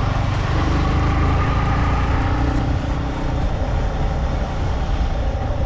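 Motorcycle running on the road while being ridden, a steady loud low rumble with no break.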